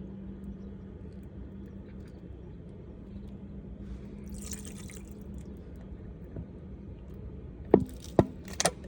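Water dripping and trickling at a small 1.5-inch gold dredge, over a steady low hum that fades out about halfway through. A brief hiss comes just before the middle, and three sharp knocks sound near the end.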